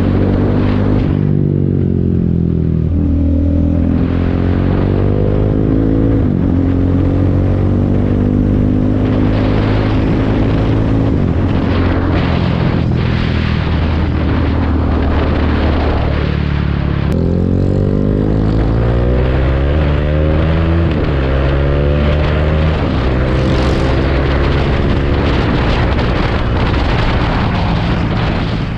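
KTM 390 Duke's single-cylinder engine running through a MIVV GP carbon full-system exhaust, its pitch repeatedly rising under throttle and dropping back.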